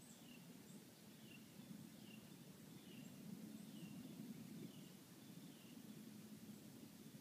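Faint bird call repeated about once a second, each a short high note falling in pitch, over a low steady rumble in quiet woodland.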